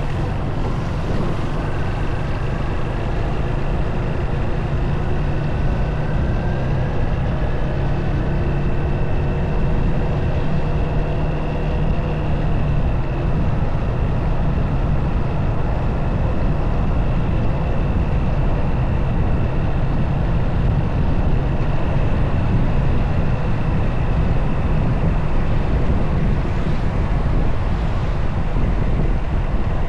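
Motorcycle engine running steadily while riding, mixed with wind and road noise on the camera's microphone.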